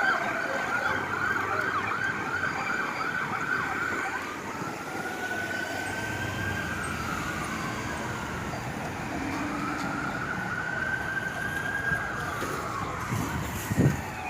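Emergency vehicle siren on a responding unit: a fast yelp for about the first four seconds, then a slow rising-and-falling wail. A short loud low blast comes near the end.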